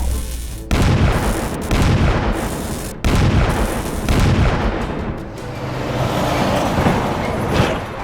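Cartoon sound effects: deep booms with a noisy rumble, striking suddenly about a second in and again about three seconds in, over background music.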